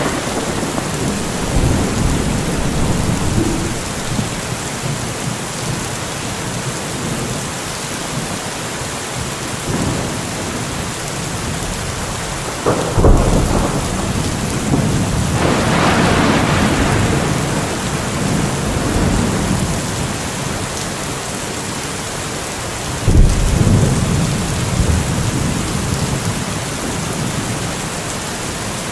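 Steady heavy rain with thunder: sharp thunderclaps about halfway through and again near the three-quarter mark, each trailing into a rumble, with another rumble rolling in between.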